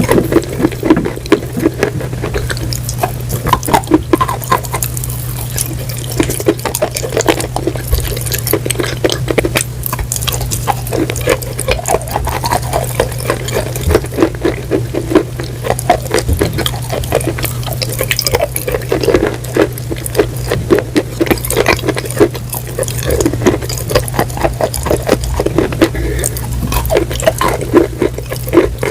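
Close-miked ASMR eating sounds: continuous, irregular wet crunching and chewing with many sharp crackles, over a steady low hum.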